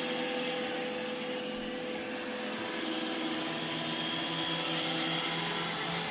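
iRobot Roomba E6 robot vacuum running, a steady whir of its motors and brushes with a steady hum. A higher whine comes in about halfway through.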